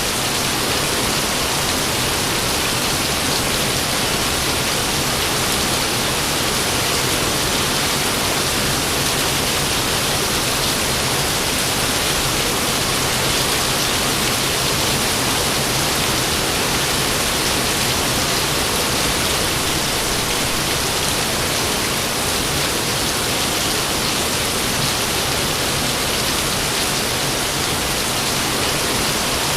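Rain falling steadily: an even, unbroken hiss, with no thunder.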